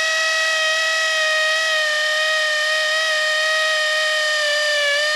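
DeWalt DCD996 20-volt brushless hammer drill running flat out in hammer mode, boring a hole into an ash trunk, a hardwood. It makes a loud, steady, high-pitched buzz that sags slightly near the end before the drill stops.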